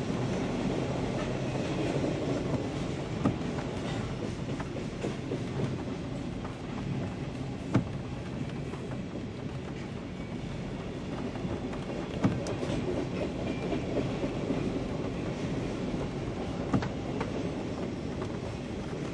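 Freight train cars rolling steadily past, their wheels clicking over rail joints, with sharp clicks standing out every few seconds, heard from inside a car in the rain.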